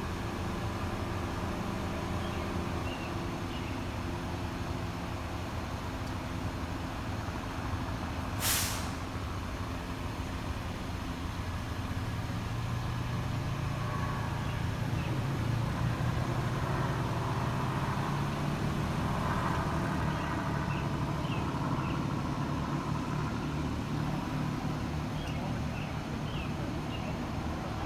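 Heavy vehicle engines running steadily, growing somewhat louder in the middle. A single short, sharp hiss comes about eight seconds in.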